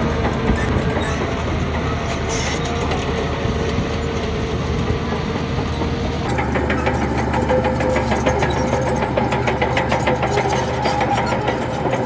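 Heavy diesel earthmoving machinery running steadily. About six seconds in the sound changes abruptly and a rapid, regular clatter joins the engine.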